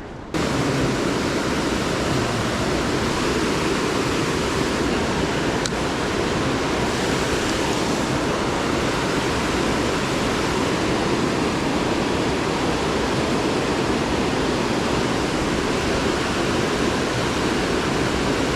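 Steady, loud rushing of fast-flowing or falling water, like a small waterfall or rapids, starting suddenly just after the beginning and holding an even level throughout.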